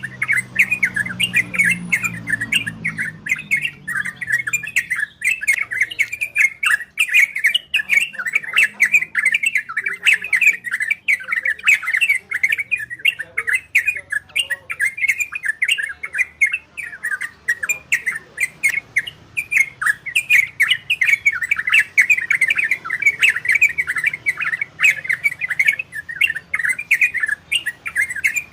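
Olive-winged bulbul (trocok) singing a fast, continuous run of chattering notes with no breaks.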